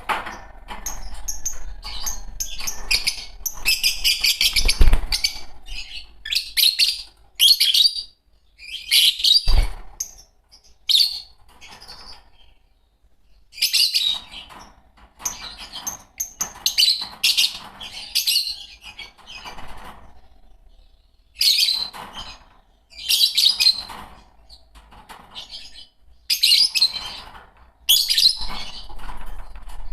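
Fischer's lovebirds chattering in bursts of shrill, rapid chirps, pausing for a second or so between bursts. There is a low thump about five seconds in and another near the ten-second mark.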